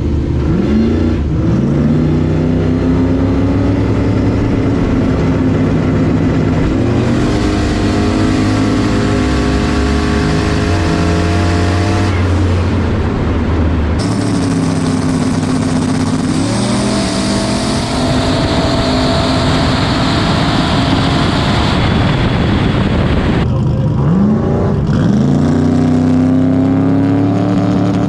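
Turbocharged race-truck engine under hard acceleration, loud throughout: its pitch climbs, drops back and climbs again several times as it is revved and shifted up through the gears.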